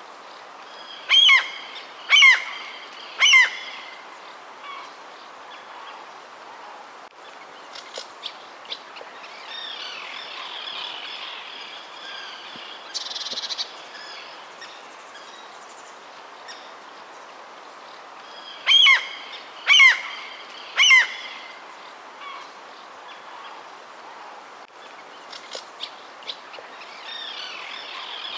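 Birds calling: one bird gives three loud, clear calls in a row, each falling in pitch, twice (near the start and about two-thirds through). Softer chirping and twittering come between the calls, over steady background noise.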